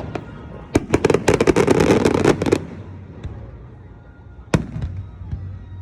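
Fireworks display: a rapid crackling run of many small bursts for about two seconds, then scattered pops and a single sharp bang about four and a half seconds in.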